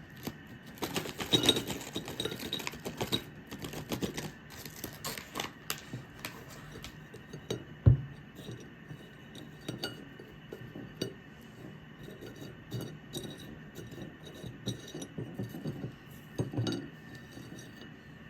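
Small hard objects being handled: a run of light clinks and taps, with one sharper knock about eight seconds in.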